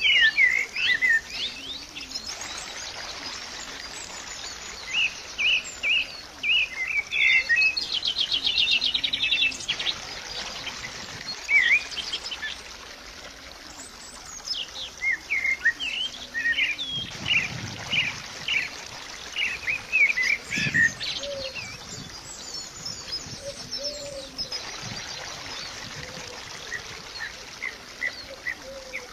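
Small birds chirping and singing: many quick, short chirps, with a rapid trill about eight seconds in, over a steady hiss.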